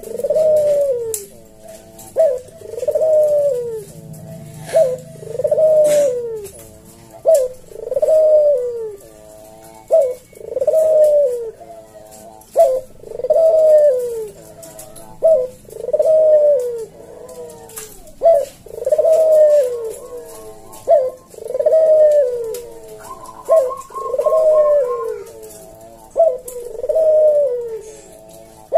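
A puter (Barbary dove) cooing over and over in its loud, sharp song. Each call is a short note followed by a longer falling coo, repeated about every one and a half seconds.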